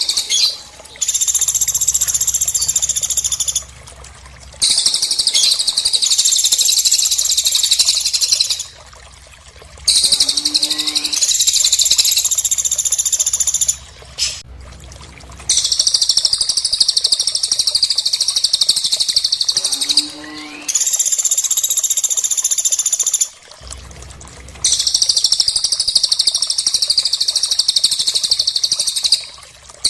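Recorded birdsong of the cililin and the pelatuk, played as a tutor track for songbirds. Rapid, high-pitched trilling phrases of three to four seconds each repeat about six times with short breaks between them. A few short, lower notes fall in two of the breaks.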